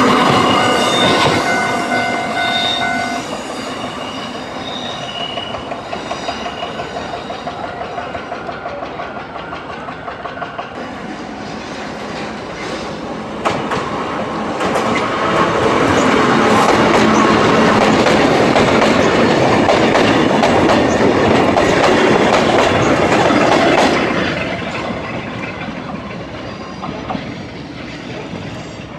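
Vintage Kotoden retro electric railcars running past on the rails. A high, steady squeal sounds for the first few seconds, then comes a rhythmic clatter of wheels over the rail joints. In the middle a loud pass of a train close by fades away over the last few seconds.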